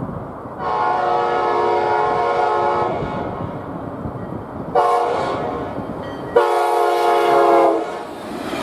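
Tri-Rail commuter train's multi-chime air horn sounding a long blast, a short one and another long one, over the rumble of the approaching train.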